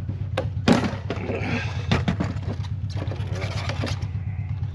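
Fuel pump and sending unit assembly knocking and scraping as it is handled at the fuel tank opening, several sharp knocks, the loudest about a second in, over a steady low hum.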